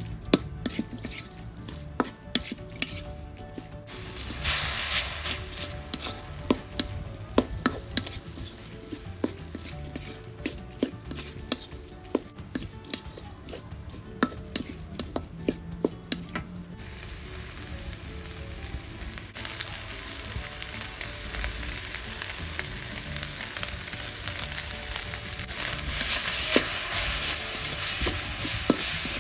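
Minced pork frying in a metal wok, sizzling while a wooden spatula stirs and scrapes it against the pan with frequent sharp scraping clicks. The sizzle jumps up about four seconds in and grows steadier and louder in the last few seconds.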